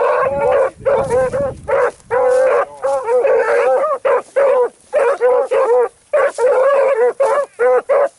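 A pack of hounds giving voice on a track: short, bawling and yipping bays, several dogs calling one after another and over each other with only brief pauses.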